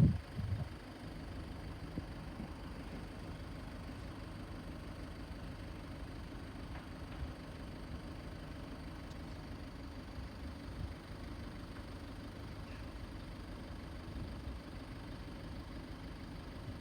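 A motor vehicle engine idling steadily as a low, even rumble.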